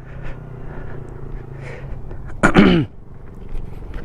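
A motorcycle engine running steadily at low revs, fading after a couple of seconds. A short, loud vocal exclamation falling in pitch comes about two and a half seconds in.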